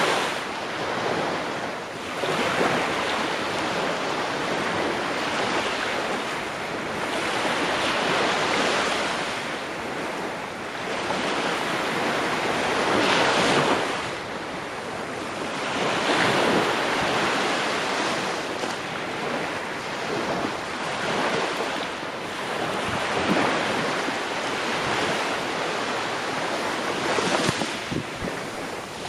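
Ocean waves washing in one after another, the rush of water swelling and falling back every few seconds.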